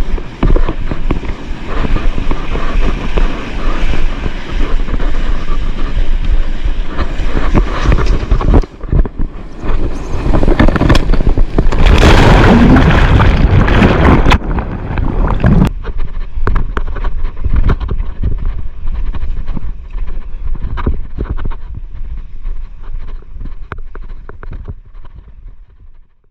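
Wind buffeting a GoPro's microphone over the rush of breaking surf, with a louder surge of water and wind about twelve seconds in. The sound fades out near the end.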